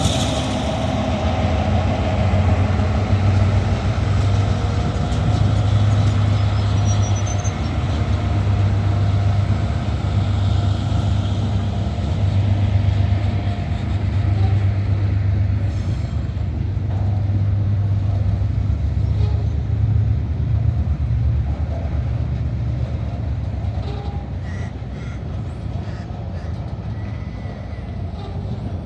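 A slow-moving freight train led by diesel locomotives: a steady, deep engine hum over the rumble of wheels on the rail. It eases slightly near the end.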